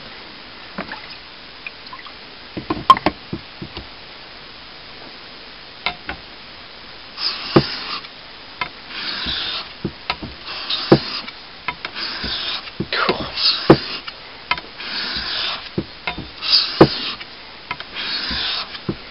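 A steel blade stroked back and forth on the coarser side of a wet Japanese water stone, giving a gritty scraping about once a second from about seven seconds in. A few light knocks and clicks come before the strokes begin.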